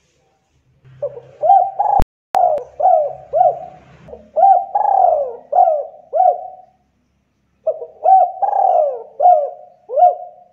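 Spotted dove (tekukur) cooing in two runs of rapid, repeated coos with a short pause about seven seconds in. A sharp click sounds about two seconds in.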